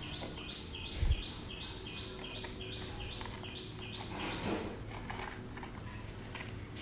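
A bird calling a rapid, evenly repeated high two-note chirp, each call stepping down in pitch, about three a second, stopping about halfway through. A single dull thump about a second in.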